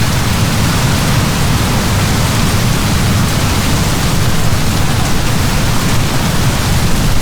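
Heavy downpour of rain, a steady loud hiss with a deep rumble underneath and no breaks.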